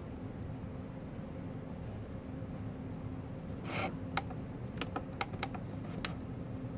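A faint rustle about four seconds in, then a quick, irregular run of small, light clicks, over a faint steady hum.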